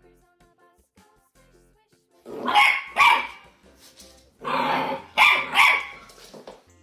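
A dog barking loudly, two barks about two and a half seconds in and three more about four and a half seconds in, over quiet background music.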